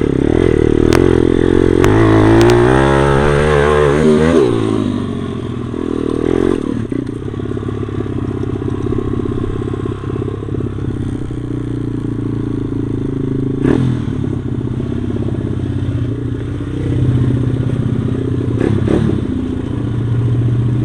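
Stomp pit bike's single-cylinder four-stroke engine running under a rider, revved up and down quickly in the first few seconds, then running steadier at lower revs. A few sharp knocks and clatters sound over it.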